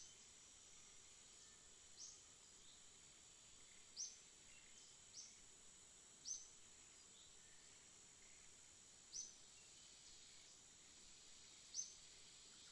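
Faint bird chirping: single short, high chirps that slide downward, coming about every one to three seconds over a steady high-pitched hiss.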